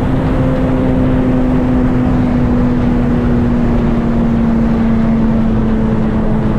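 Car engine and road and wind noise at high speed, the engine holding a steady note whose pitch sags slowly as the car eases off after a hard run.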